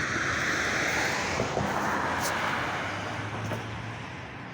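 A car passing on the street: tyre and road noise swelling and then fading away, with a low engine hum near the end.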